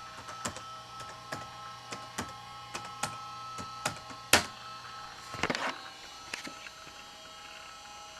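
Irregular clicks of a Toshiba Tecra 8000 laptop's keys and pointer buttons, about ten in all, the sharpest about four seconds in and a quick cluster a little after five seconds. Under them runs the machine's faint steady whine and hum.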